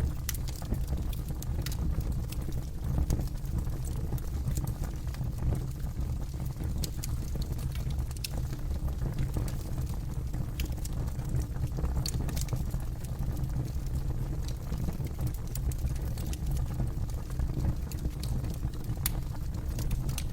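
Campfire burning: wood crackling and popping in scattered sharp snaps over a steady low rumble.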